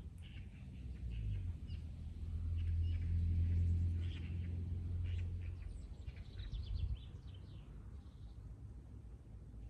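Small birds chirping in short, scattered calls, over a louder low steady hum that swells in the first few seconds and fades out about two-thirds of the way through.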